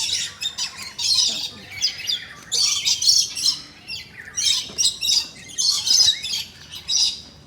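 Many birds chirping and squawking together in a dense, high-pitched chatter that comes in repeated bursts, a new burst every second or so.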